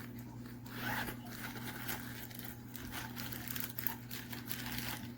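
Irregular rustling and scraping as a hair styler's attachments and accessories are handled in their fabric storage bag and packaging, over a low steady hum.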